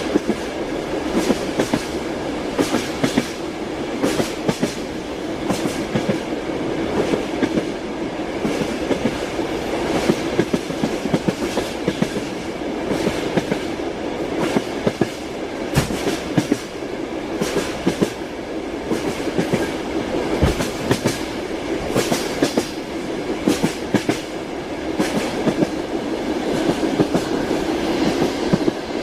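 Train wheels clicking over rail joints in uneven clusters, over the steady rumble of a moving railway carriage.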